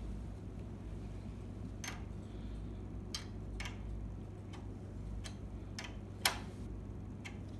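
Irregular light clicks and taps, about eight of them, the loudest a little after six seconds in, over a steady low hum.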